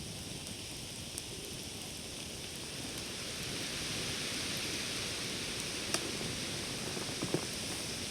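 Wood campfire burning with a steady hiss and soft crackling, and a few sharp pops, the loudest about seven seconds in.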